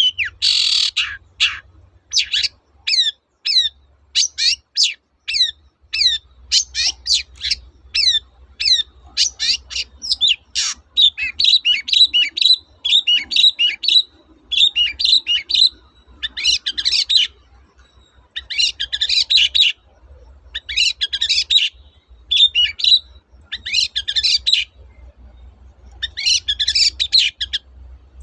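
Long-tailed shrike (cendet) singing vigorously. First comes a quick run of sharp, downward-sliding whistled notes, then, from about the middle on, dense chattering song phrases about a second long with short pauses between them.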